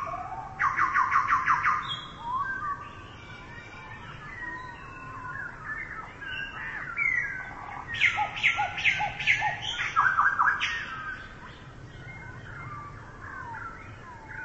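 Songbirds chirping and calling: short chirps and whistles, with quick runs of repeated notes soon after the start and again about eight seconds in.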